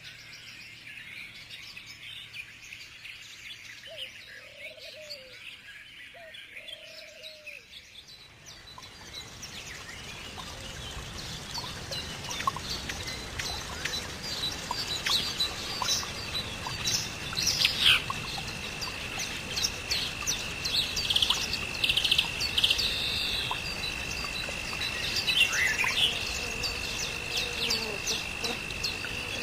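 Birds chirping and calling in many short notes, growing busier and louder from about a third of the way in. A steady high whine joins a little past halfway and holds to the end.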